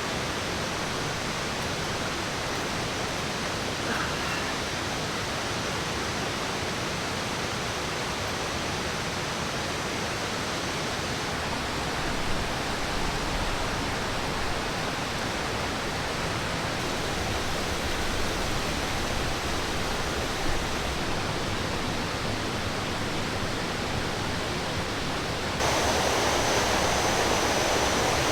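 Steady rush of a waterfall and stream, an even wash of water noise. It jumps suddenly louder near the end.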